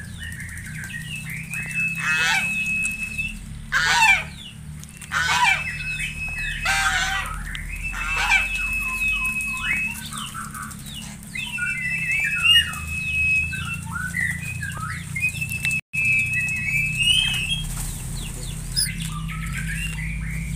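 Several birds calling in the open. A held, flat high whistle about two seconds long comes back about five times, over many short chirps, and in the first half a few loud, rapid, rough calls break in.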